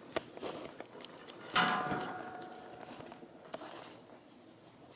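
A sharp metallic clank about a second and a half in that rings on and fades, with a few light knocks around it.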